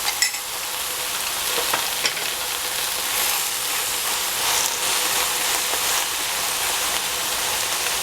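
Eggplant and minced pork sizzling steadily as they fry in a covered pan, with a few light clicks in the first couple of seconds.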